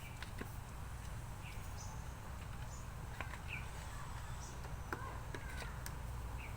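Outdoor ambience: a few short bird chirps and scattered light clicks over a steady low hum.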